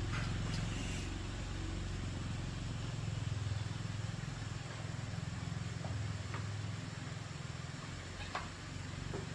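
Motorcycle engine running at a steady idle, started just before. A few faint ticks sound over it near the end.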